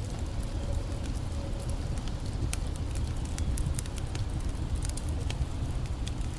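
Wood campfire crackling, with irregular sharp pops and snaps, over a steady low rush of creek water.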